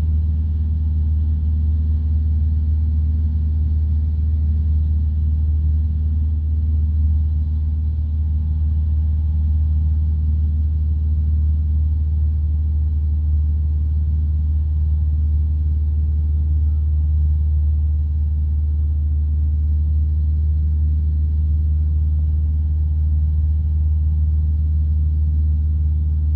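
Light aircraft's piston engine and propeller droning steadily in cruise, heard from inside the cabin, a deep even hum with no change in power.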